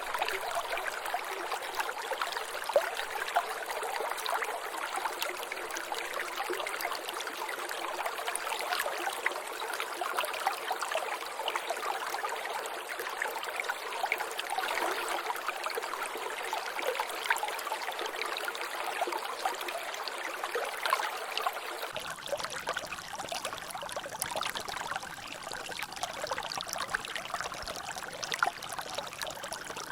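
Water trickling and dripping in a small natural drainage, a steady wash of many tiny splashes and drops. The sound changes abruptly about three-quarters of the way through, taking on a deeper, fuller rush.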